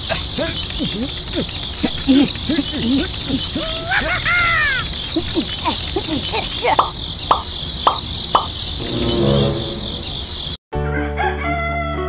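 Night ambience of frogs croaking and insects chirping steadily, then a rooster crows about nine seconds in. The sound cuts out abruptly and background music begins.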